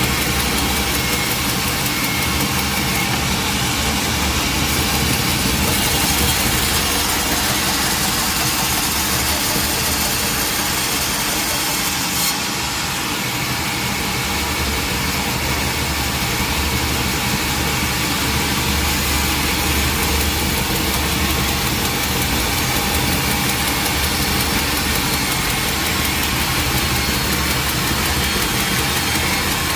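Sawmill machinery running steadily with an engine-like hum and a hiss across the highs. There is a brief click about twelve seconds in, after which the highest hiss drops a little.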